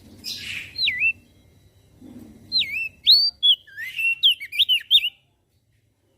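Crested white-eye (opior jambul) singing. A short harsh rasping note comes first, then loud swooping whistled notes that quicken into a rapid run before cutting off abruptly about five seconds in.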